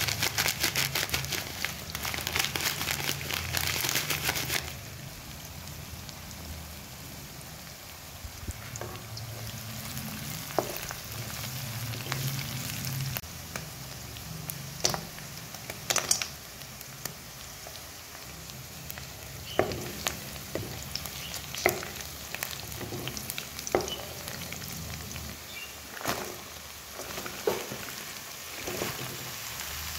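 Onions and green chillies frying in hot oil in a wok: a loud, fast crackle for the first four seconds or so as cumin seeds splutter in the oil, then a quieter steady sizzle with scattered sharp pops.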